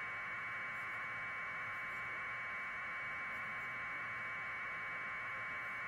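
Steady static hiss, even and unchanging, sitting in a narrow middle band of pitch.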